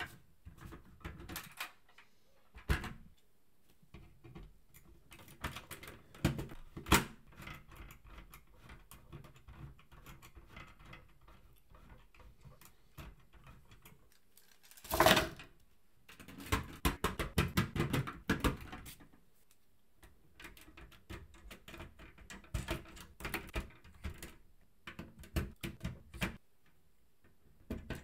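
LEGO Technic plastic parts being handled and pressed together: irregular clicks and small rattles, with a louder rattle about halfway and a quick run of clicks just after it.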